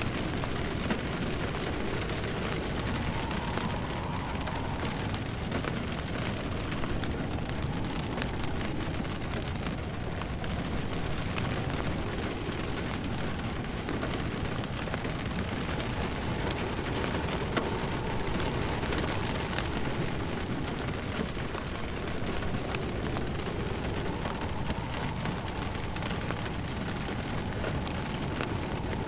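Steady rain mixed with a wood fire burning in a fireplace, with small crackles scattered through it.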